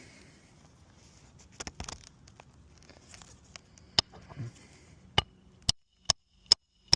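Hammer striking the metal roof-snake shingle-nailing tool to drive a nail under a shingle: a single sharp blow about four seconds in, then a quick run of five strikes about half a second apart near the end, each with a faint metallic ring. Light rustling and handling of the tool comes before the blows.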